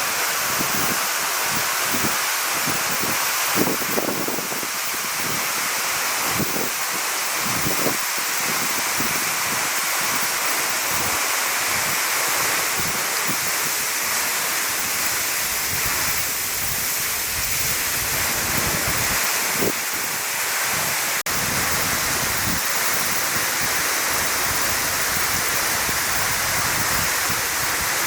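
A vertical waterfall about 40 m high plunging into its pool, giving a steady, even rush of falling water. Irregular low bumps from wind on the microphone come through in the first half.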